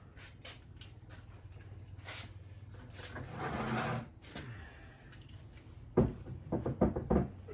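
Clinks and knocks of metal motorcycle fork parts being handled on a workbench, with a short rasping scrape a little past the middle and a quick run of sharp knocks near the end.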